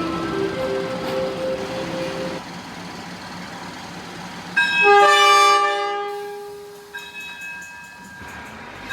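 Diesel railcar train running, with a pulsing tone in the first two seconds. About four and a half seconds in, the horn sounds loudly in one long chord of several tones and fades away over about two seconds.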